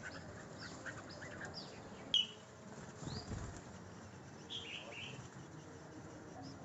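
Small songbird at the nest making short, high, falling chirps, several a second at first and a few louder ones about four and a half seconds in. A sharp click about two seconds in and a brief low rumble just after three seconds come from movement at the nest.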